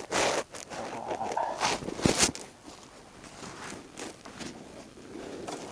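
Footsteps with rustling and scuffing, irregular, with a few louder scuffs in the first couple of seconds and quieter steps after.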